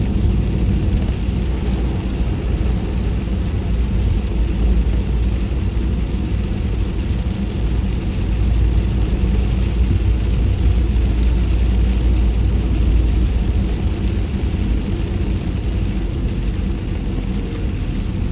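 Road noise heard inside a car's cabin with the windows up while driving on rain-wet streets: a steady low rumble of engine and tyres with a hiss of tyres on wet pavement, a little stronger in the middle and easing near the end.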